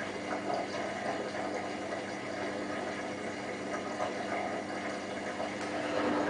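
Hotpoint WT960 washing machine's drain pump humming steadily as it pumps out water, at the end of the quick fill-and-drain cool down after the main wash.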